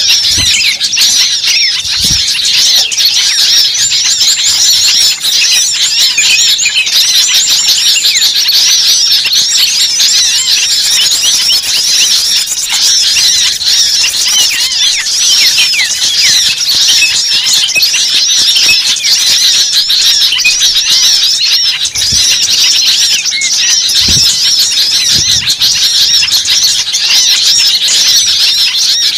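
Dense, unbroken chorus of many small birds chirping and squealing in a frenzied tangle of quick, high calls: a bird-trapping lure recording of agitated small birds such as sunbirds. A few faint low thumps come through underneath.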